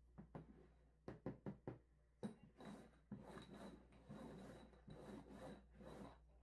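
Faint knocks and scrapes of small cups being set down and slid around on a cardboard box top as they are shuffled: a quick run of knocks about a second in, then several sliding scrapes.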